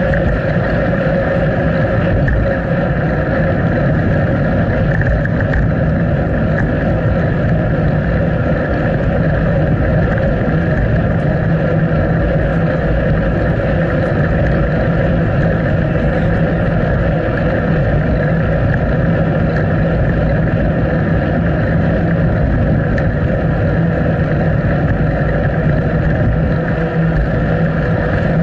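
Steady rush of wind buffeting an action camera's microphone, mixed with the rolling noise of a moving bicycle, unchanging throughout.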